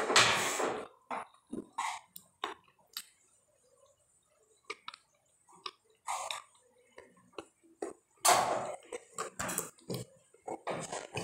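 Close-miked mouth sounds of eating stewed chicken feet by hand: scattered short wet clicks and smacks of chewing, with two longer, louder noisy stretches, one right at the start and one about eight seconds in.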